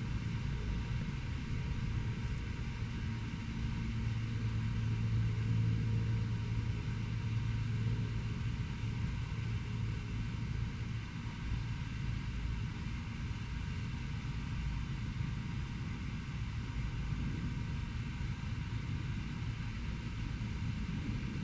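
Steady low rumble of distant road traffic, swelling a little about four to nine seconds in, over a faint steady hum.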